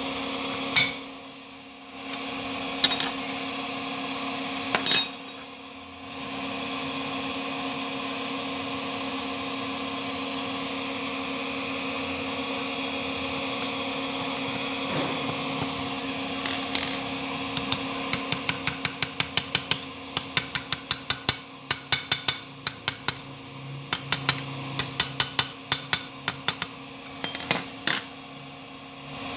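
Sharp metallic taps and clinks over a steady machine hum. A few single knocks come in the first seconds, then from about halfway there are long runs of quick light strikes, several a second.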